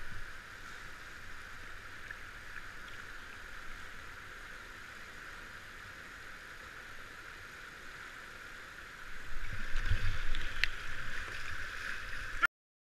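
Water noise of a kayak out on a river, steady at first, then louder with low rumbling from about nine seconds in, and a sharp knock shortly after.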